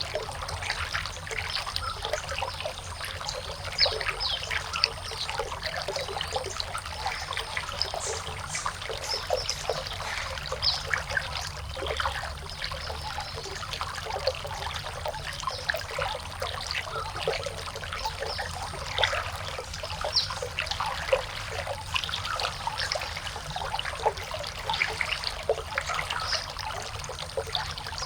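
Water trickling and splashing, a steady run of small irregular splashes.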